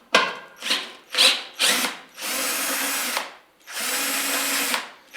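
Power drill with a 10 mm socket unscrewing bolts: four short bursts, then three longer runs of about a second each.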